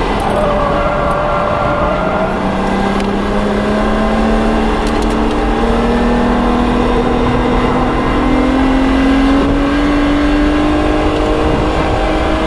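BMW 135i's N54 twin-turbo straight-six, heard from a microphone under the hood, accelerating, its pitch climbing slowly and steadily.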